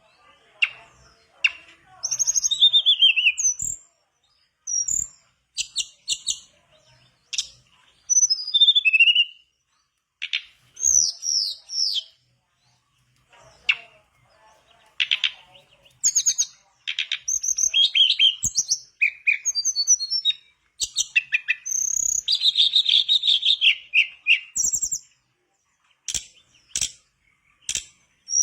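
A tledekan bakau songbird singing lively. It gives phrases of high whistled notes, many falling in pitch, mixed with sharp chirps and short pauses. About three quarters of the way through there is a longer run of fast twittering.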